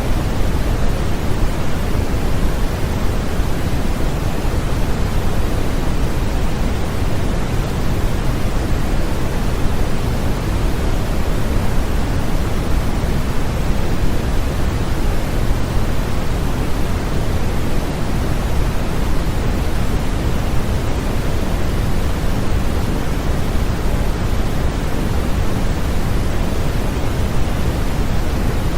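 Steady, unchanging electronic noise, heavier in the low end like pink noise rather than an even white hiss.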